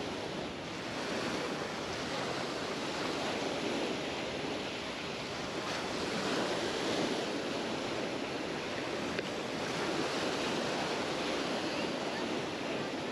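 Sea waves breaking and washing up on a beach: a steady surf hiss that swells and eases every few seconds.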